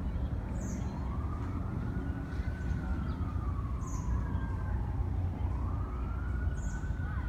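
An emergency vehicle siren wailing, its pitch rising and falling in slow sweeps, over a steady low rumble, with a few short bird chirps high above it.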